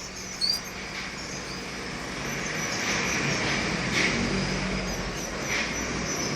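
Steady background noise with a single short canary chirp about half a second in, followed by a few faint, brief high calls.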